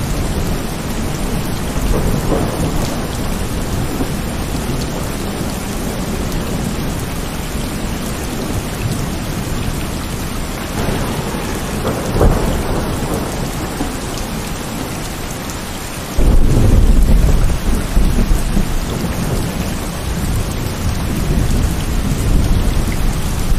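Heavy rain falling steadily, with rolling thunder. Rumbles swell about two seconds in and again around eleven to twelve seconds, and a louder clap of thunder breaks in sharply about sixteen seconds in and rumbles on for a few seconds.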